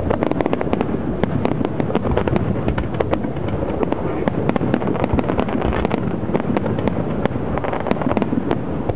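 Aerial fireworks bursting: a rapid, continuous crackle of many sharp bangs, several a second.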